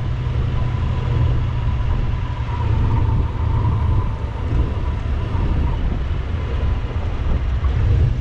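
1968 Buick Skylark running down a back road: a steady low engine and road rumble, with a thin steady whine above it that fades out about six seconds in.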